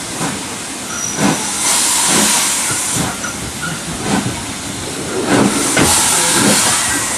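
BR Standard 5 steam locomotive No. 73096 hissing steam in two long bursts, about two seconds in and again near the end, with irregular knocks and clanks underneath.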